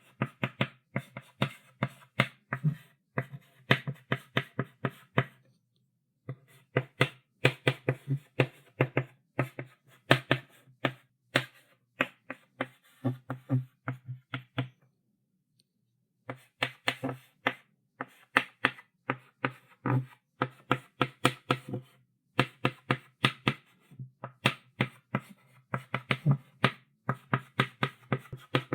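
Chalk writing on a chalkboard: quick runs of sharp taps and short scratches as strokes are drawn, pausing briefly twice.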